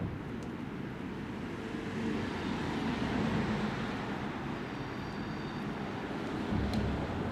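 A train moving through a large station: a steady rumble that swells a little about three seconds in, with a faint high whine near the end.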